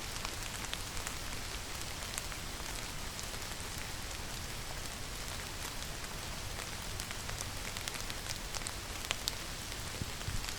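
Steady rain falling, a constant hiss with many separate drops ticking close by.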